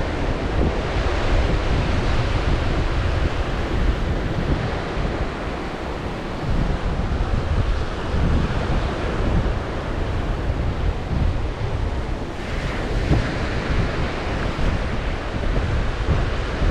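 Black Sea surf breaking and washing on the shore in a continuous rumble, with strong wind buffeting the microphone. About twelve seconds in, a brighter hiss of a wave rushing in rises over the rumble.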